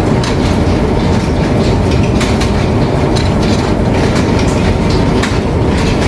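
Tea-processing machinery running loudly, a steady heavy rumble with clattering and scattered sharp knocks.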